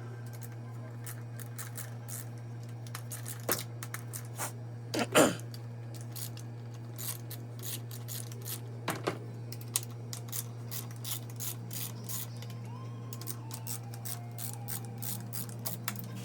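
Hand socket ratchet clicking in quick runs as bolts are backed out on a car engine, with a louder metallic knock about five seconds in, over a steady low hum.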